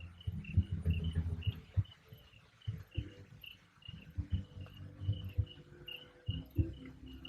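Crickets chirping: short high chirps repeating evenly, about two or three a second, over a low irregular rumble with a few soft thumps.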